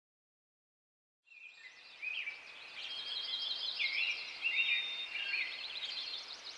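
Songbirds chirping and singing in quick, high-pitched trills and whistled notes over a light background hiss, starting about a second and a half in and cutting off suddenly at the end.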